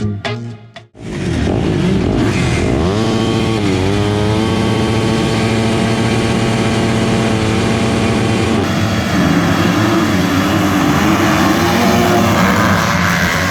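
Background music cuts off about a second in. Then a motocross bike engine runs under load, its pitch rising and falling a couple of times before holding steady at high revs.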